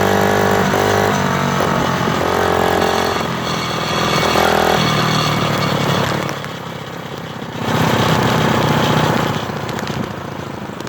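Motorcycle engine running, its pitch shifting up and down with the throttle. It drops in loudness about six seconds in and comes back a second and a half later.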